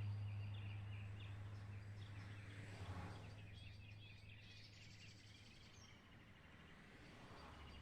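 Birds chirping over a low, steady rumble that fades away gradually.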